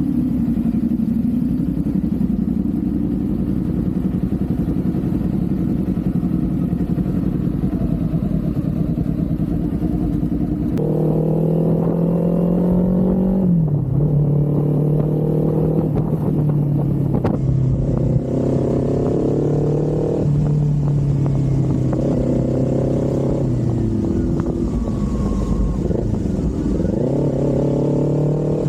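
Kawasaki Z400's parallel-twin engine running on the move. It holds a steady note for about the first ten seconds, then its pitch steps down several times and dips and climbs again near the end.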